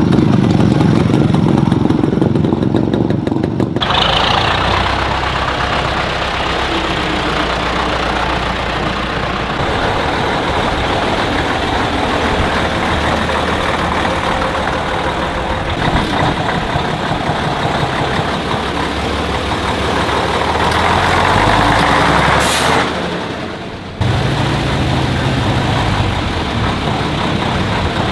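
Engines of vintage tractors and trucks running and driving past, in several cut-together shots, so the engine sound changes abruptly about four seconds in and again near the end. A short hiss rises out of the engine noise about three-quarters of the way through.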